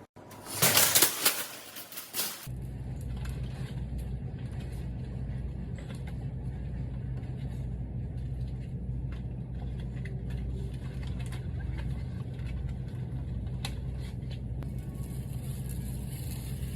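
A loud rushing noise for the first couple of seconds, then a steady low car engine hum that carries on unchanged.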